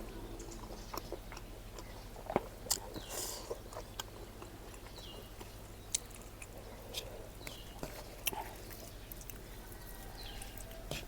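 Close-miked chewing and mouth sounds of someone eating, with scattered sharp clicks and wet smacks over a faint steady hum.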